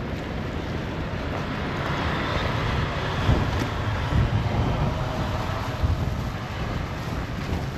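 Storm wind buffeting the microphone in a low rumble, while a road vehicle's engine and tyres swell up and fade away as it passes.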